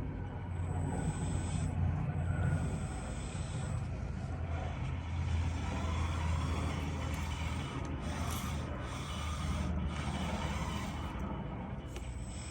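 Lesu radio-controlled hydraulic skid steer loader running: a steady low hum from its electric hydraulic pump and drive motors, with a thin high whine during the first few seconds.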